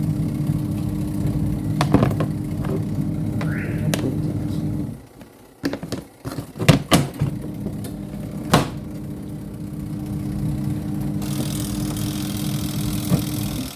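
Twin-tub washing machine's spin-dryer motor running with a steady hum. It stops about five seconds in, a few sharp knocks and clatters follow, then it starts again and runs until it cuts off near the end.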